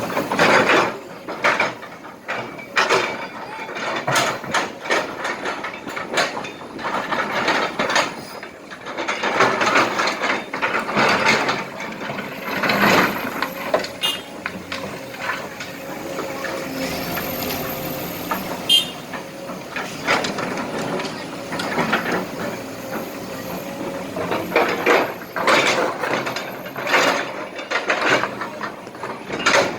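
Kobelco SK200 hydraulic excavator working with its engine running, under irregular clattering and scraping as broken asphalt and small rocks are scooped and dropped into a truck.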